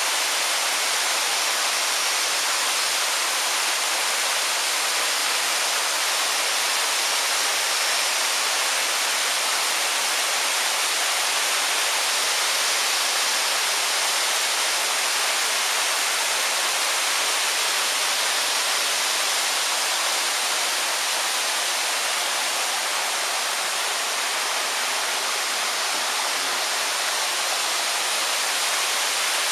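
Waterfall: water falling and splashing in a steady, even rush. A brief low thump about 26 seconds in.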